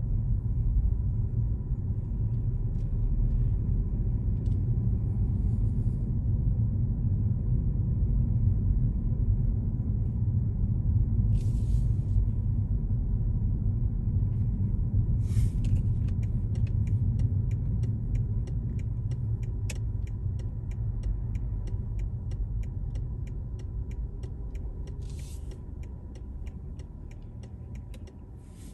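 Road noise of a car being driven: a steady low rumble of tyres and engine that fades gradually in the second half. Through the last third there is an even ticking, about two to three clicks a second, and a few short hisses.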